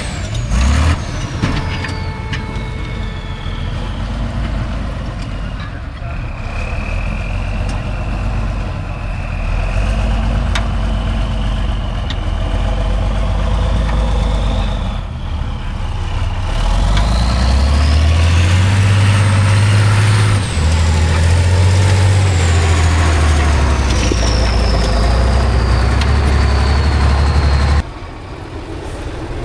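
Heavy off-road truck's engine working under load. The revs climb about halfway through, with a high whistle that rises and then falls, and the sound cuts off sharply near the end.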